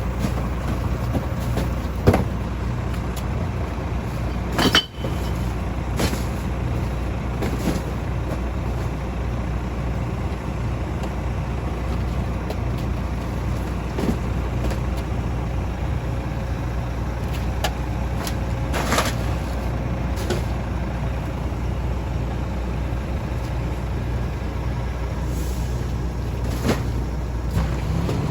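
Garbage truck engine running steadily, with a few sharp knocks and clanks, the loudest about two and five seconds in.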